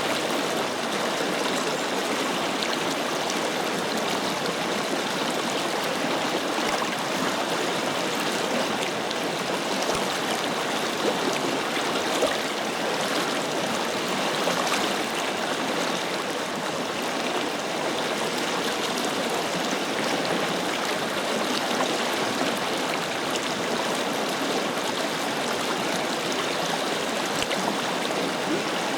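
A forest river flowing, a steady rush of water over stones with fine gurgles and splashes.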